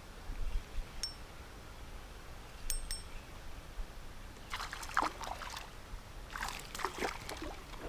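Water splashing in two short spells in the second half as a hooked smallmouth bass is pulled to the surface and landed, after a few faint light clicks.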